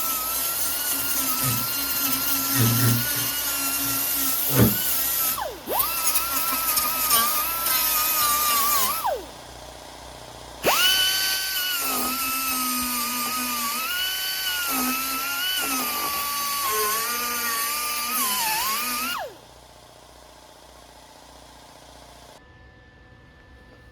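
Handheld rotary power tool whining at high speed as metal is cleaned up for welding. It runs in three stretches, with a short break about five seconds in and a longer pause near the middle, and stops for good a few seconds before the end. Its pitch sags and recovers as the tool is pressed into the work.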